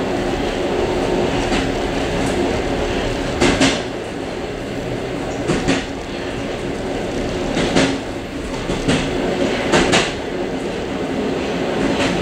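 Suburban train running, heard from inside its vestibule: a steady rumble of wheels and running gear, with a double clickety-clack at the rail joints about every two seconds.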